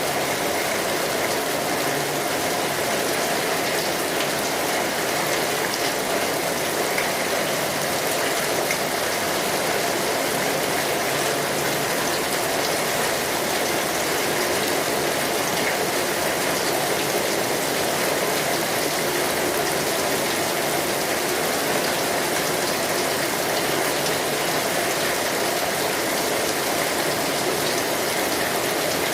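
Steady rainfall, a dense even hiss of drops without let-up.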